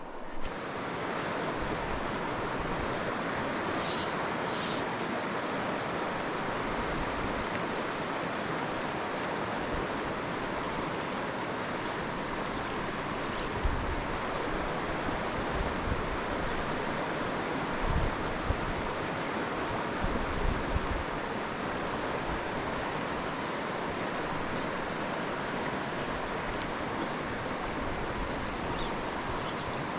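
Mountain creek water rushing steadily, with a few short low bumps about halfway through.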